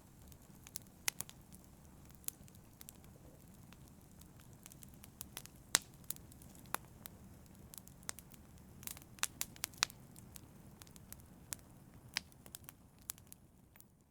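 Wood fire in a fireplace crackling: sharp, irregular pops and snaps over the low, steady rustle of the burning logs.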